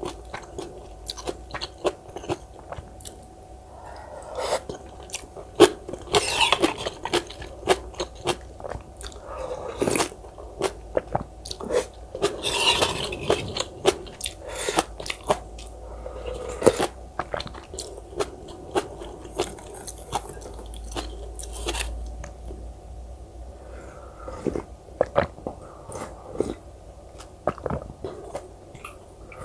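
Close-miked mouth sounds of eating: wet chewing broken by many sharp crunches, as of biting into cubed radish kimchi, with a few longer hissy stretches of chewing.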